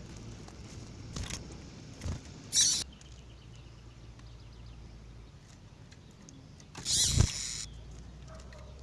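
Faint short chirps of a female double-collared seedeater over a low hum, broken by two brief, louder, scratchy noises about two and a half seconds in and about seven seconds in.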